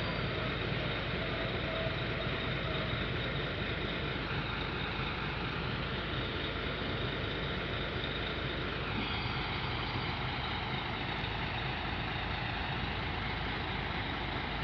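Isuzu Forward FS truck's diesel engine running steadily, its sound changing slightly about nine seconds in.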